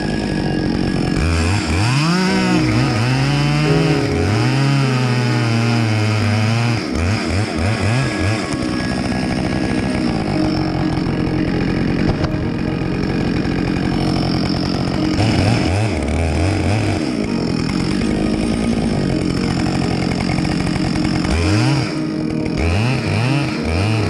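Chainsaw running, its engine speed rising and falling repeatedly in the first few seconds and again near the end, with a steadier high-speed stretch in between.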